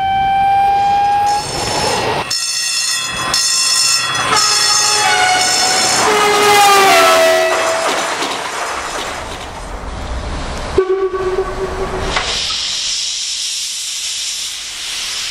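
Makrofon railway air horns sounding a series of blasts, several tones at once, with one blast sliding down in pitch as it dies away. A short, lower horn note comes about eleven seconds in, followed by a steady hiss.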